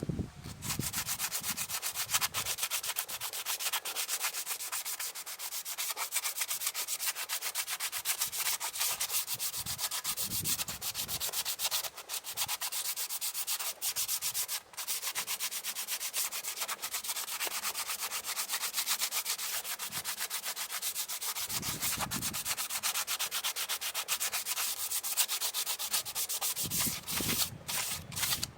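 Fast, even, machine-like rubbing or sanding, with a few short breaks, stopping shortly before the end.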